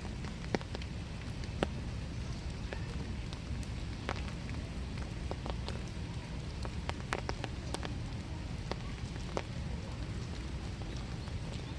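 Steady winter rain falling, with irregular sharp drops ticking close by on surfaces.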